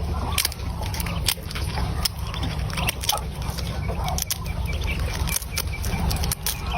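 Birds making short calls, with many sharp clicks and taps over a steady low hum.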